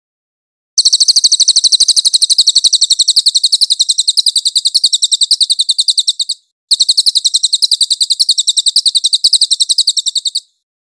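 Crested jay (cililin) calling: a loud, rapid, even rattle of high, sharp notes, running for about five and a half seconds, breaking off briefly, then resuming for about four seconds more.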